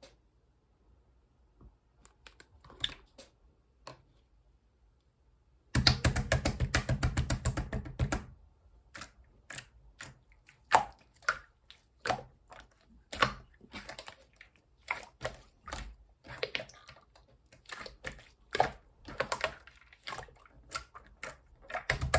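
Yellow slime being squished and pressed by hand, making sticky clicks and pops. It is nearly quiet at first; about six seconds in comes a dense, rapid run of crackling clicks for about two seconds, followed by separate clicks and pops at an uneven pace, with another busy burst near the end.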